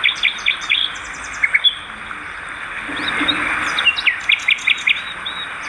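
Swiftlets twittering: many short, sharp chirps in quick runs over a steady hiss.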